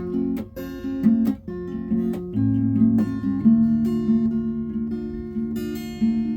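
Background music: strummed acoustic guitar playing an instrumental passage of a song, with regular strums.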